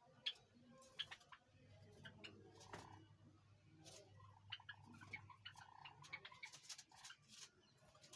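Java sparrows chirping faintly in their cage: many short, scattered chips and clicks, over a low steady hum.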